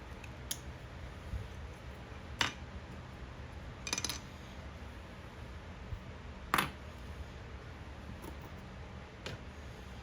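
A handful of separate clinks and taps of small hard parts being handled, about two seconds apart, over a low steady hum.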